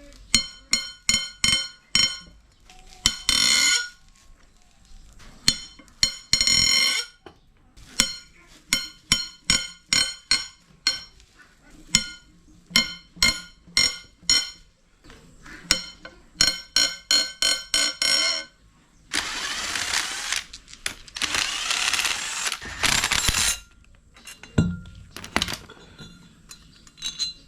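Hand tools working on metal engine parts during a teardown: runs of sharp metallic clicks and taps, a few a second, each with a short ringing tone. Near the end come two loud noisy bursts of about two seconds each.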